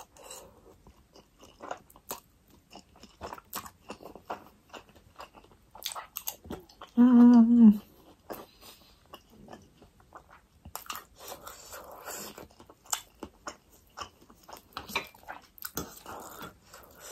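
Close-miked chewing of a mouthful of spicy ramen noodles: wet mouth clicks and smacks throughout. About seven seconds in there is a short, loud hum from the eater's closed mouth.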